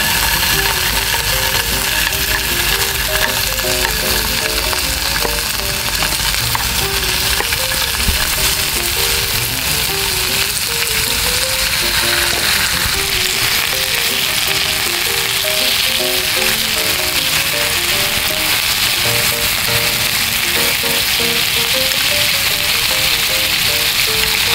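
Pork-wrapped vegetable rolls sizzling and frying in a frying pan over a camp gas stove, the sizzle growing louder about halfway through as more rolls go into the pan.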